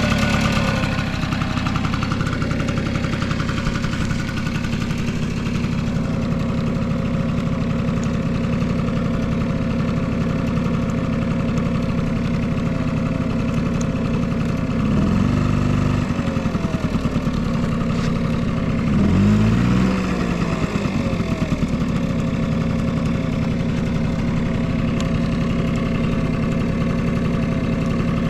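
Honda Squash AB11 50cc two-stroke scooter engine idling steadily, with two short throttle blips about halfway through and a few seconds later. It runs quietly with no abnormal engine noise.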